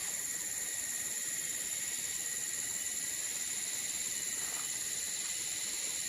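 Steady high-pitched chorus of rainforest insects, several shrill tones held without a break.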